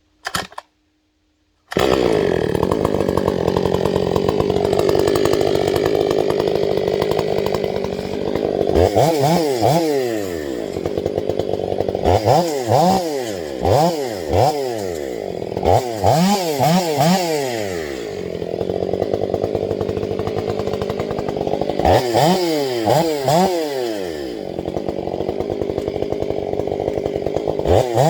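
Chainsaw engine cutting in abruptly about two seconds in and running steadily at high speed, then revving up and down over and over.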